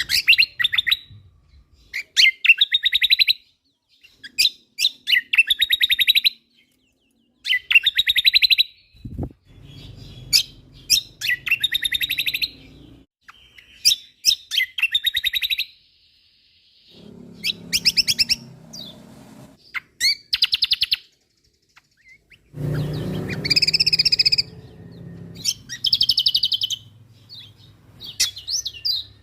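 Kecial kombok Lombok (cucak kombo) singing loud, rapid chattering phrases of quick repeated notes, each phrase lasting a second or two with short pauses between them. A faint low hum comes and goes underneath.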